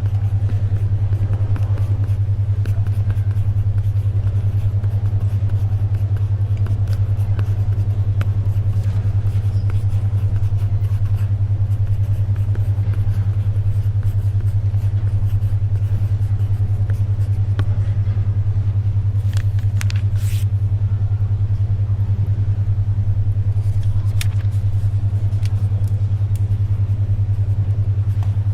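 A low, steady electronic tone, the 10.2 Hz alpha brainwave track, drones throughout over faint library ambience. Small scattered clicks of pencil writing and a brief paper rustle, about two-thirds of the way through, sit underneath.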